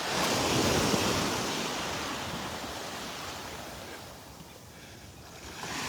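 Small Gulf of Mexico waves washing up on a sandy beach: a swell of surf noise in the first second that slowly fades away, then builds again near the end as the next wave comes in.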